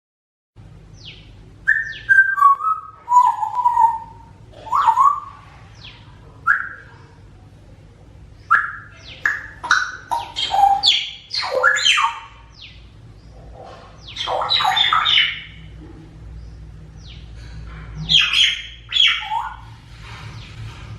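African grey parrot whistling and calling: a run of short whistles and chirps, some sliding down in pitch, with harsher squawks around the middle and near the end.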